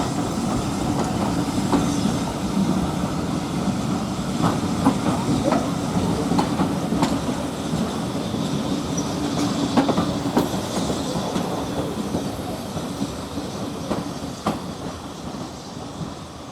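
Steam-hauled train of coaches rolling along the track with a steady low rumble and irregular clicks of wheels over rail joints. The sound slowly fades as the train draws away near the end.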